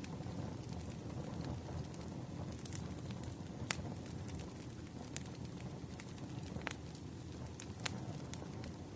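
Wood fire crackling: irregular sharp pops and snaps scattered over a low, steady rumble.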